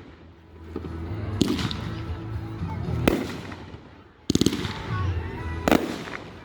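Fireworks going off: single sharp bangs about a second and a half, three seconds and almost six seconds in, and a quick rattling string of cracks just after four seconds.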